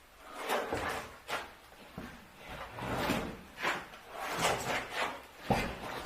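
A series of about eight uneven scraping or rubbing strokes, each under a second long.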